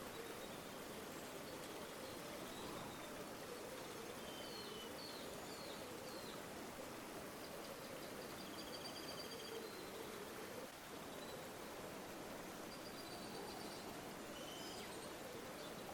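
River water flowing steadily, with small birds chirping and giving short trills over it several times.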